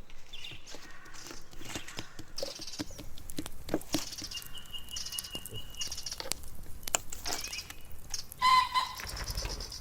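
Small birds chirping and trilling, with scattered clicks and knocks throughout. About eight and a half seconds in there is a short, louder pitched call.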